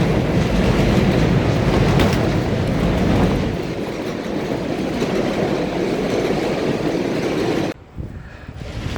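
Loud, steady rumbling vehicle-type noise that eases a little partway through and cuts off suddenly near the end.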